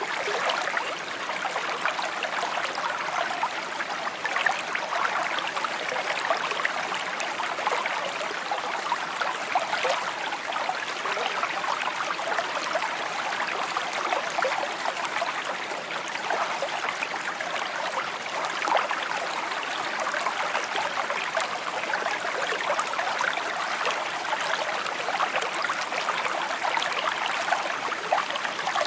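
A shallow stream babbling and trickling steadily over stones, with a bright splashing texture and no pauses.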